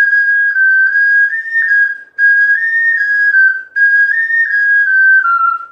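Ocarina playing a slow melody in three short phrases of stepped notes. It pauses briefly for breath about two seconds in and again near four seconds.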